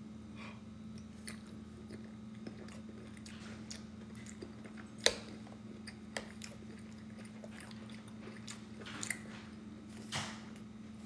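A man chewing a mouthful of soft baked chicken, vegetables and mashed potatoes, with small wet mouth clicks, over a faint steady low hum. About five seconds in comes a single sharp click, the metal fork striking the glass baking dish as he scoops the next forkful.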